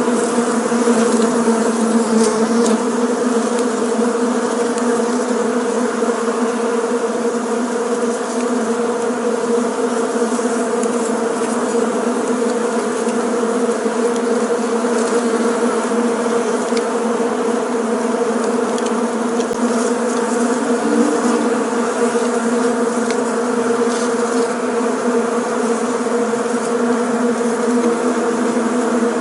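Bees buzzing continuously, a dense steady hum of many bees in flight.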